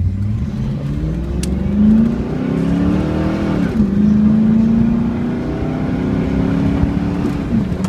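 2000 Pontiac Firebird Trans Am WS6's 5.7-litre V8 with aftermarket exhaust, accelerating. The engine note rises, then drops sharply as the automatic transmission upshifts a little under four seconds in. It pulls on steadily, rising slightly, and drops again with another shift near the end.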